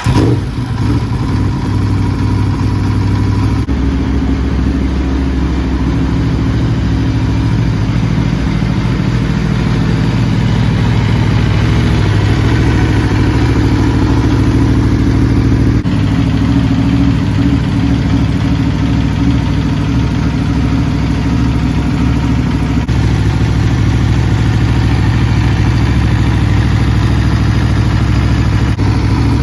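Sport-bike engine with an Akrapovic exhaust idling steadily and loudly, its note shifting slightly a few times.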